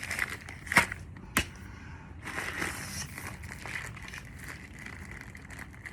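Plastic bag of clay being handled and twisted shut: two sharp knocks in the first second and a half, then plastic crinkling.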